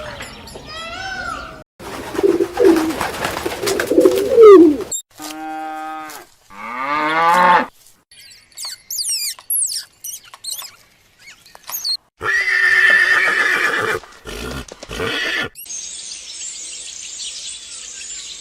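A string of short animal calls, one after another: goat bleats at the start, then other calls including a horse whinnying and small birds chirping. It ends in a steady high hiss.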